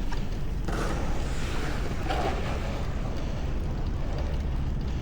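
Wind rumbling steadily on an action camera's built-in microphone while cycling through city streets in snow, with a louder rush of noise about a second in that fades after a second or two.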